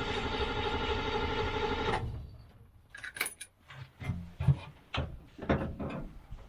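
Mercedes-Benz Unimog 404 engine being cranked over by its starter, a steady, even churning that stops abruptly about two seconds in without the engine catching. A few scattered clicks and knocks follow.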